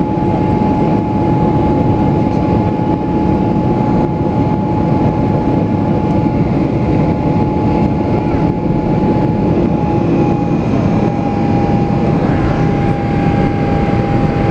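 Boeing 777 jet engines running at high power during takeoff, a loud steady rush with a high steady whine that drops slightly in pitch about nine seconds in.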